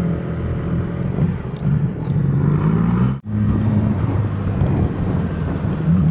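Yamaha R6 inline-four sport-bike engine heard from the rider's camera while riding. Its pitch rises as it revs up, breaks off for an instant about three seconds in, then runs on steadily.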